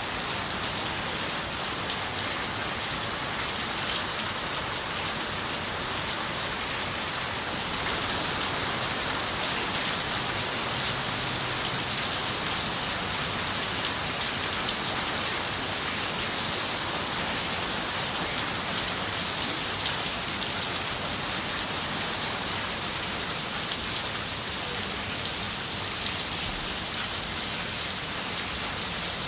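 Steady rain falling on a window: a dense even hiss with scattered single drops ticking. It grows a little louder about eight seconds in.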